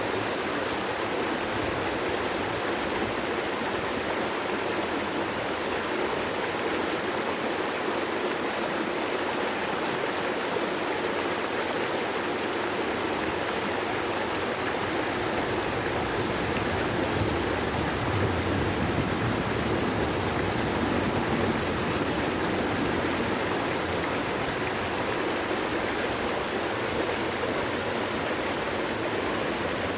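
Flowing stream water rushing and splashing over rocks in a steady wash, swelling slightly about two-thirds of the way in.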